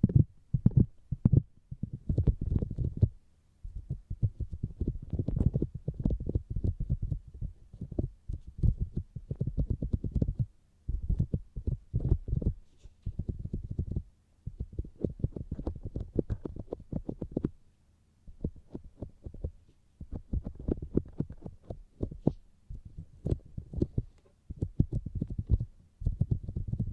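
Fingers tapping on the outer ear of a binaural microphone, in quick runs of dull, low taps lasting a second or two, separated by short pauses.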